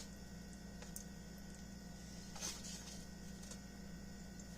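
Low steady electrical hum of the room with a few faint clicks and one brief scraping rustle about two and a half seconds in.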